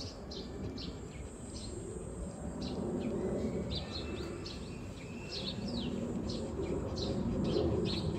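Small birds chirping in short, repeated calls over a low background hum of outdoor ambience.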